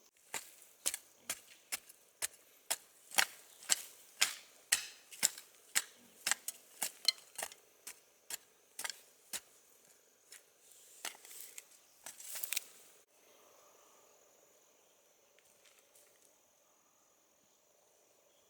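A series of sharp knocks of a hand tool striking, about two a second for roughly nine seconds, then a short burst of rasping strokes. Crickets chirr steadily and faintly behind them and are left alone near the end.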